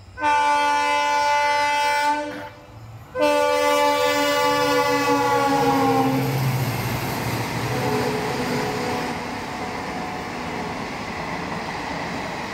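A locomotive horn sounds two long blasts, the second dropping in pitch near its end as the locomotive passes. A steady rumble of the train's coaches running by follows.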